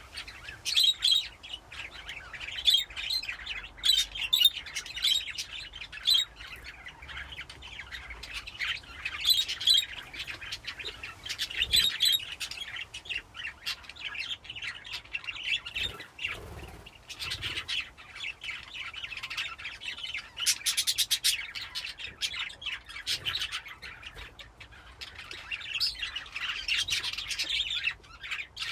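A group of budgerigars chattering, with many short overlapping chirps and squawks. About twenty seconds in there is a rapid pulsed trill.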